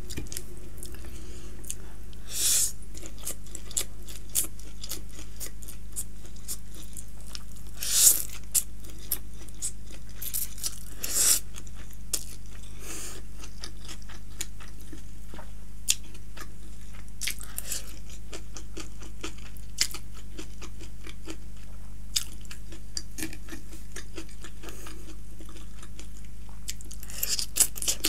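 Close-miked chewing of chowmein noodles and vegetables, with crunchy bites and short wet mouth sounds coming and going, over a steady low hum.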